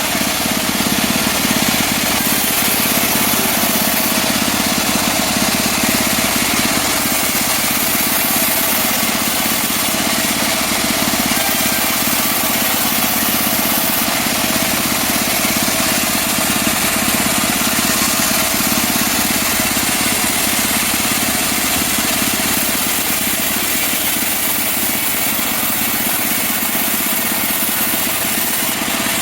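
Engine-driven portable sawmill saw running steadily under load while cutting mahogany, a continuous loud mechanical drone with no pauses.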